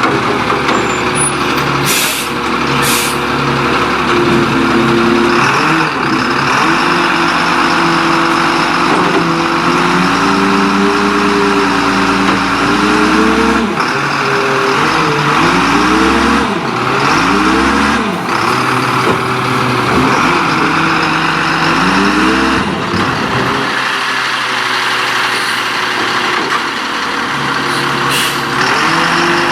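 Leach Curbtender rear-loading garbage truck running, its engine speeding up and dropping back again and again, with short air-brake hisses.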